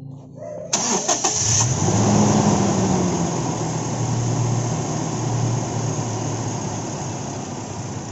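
Toyota Innova's 1TR four-cylinder petrol engine being cranked by the starter and catching after about a second. It revs up briefly on firing, then settles to a steady idle.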